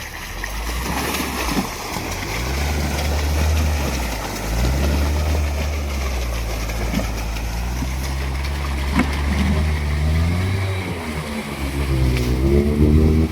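All-terrain vehicle's engine running under load, its revs rising and falling several times and climbing again near the end.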